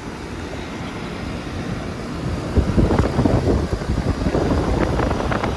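Outdoor central air conditioner condenser unit running steadily, with wind buffeting the microphone; the buffeting grows louder and gustier about two and a half seconds in.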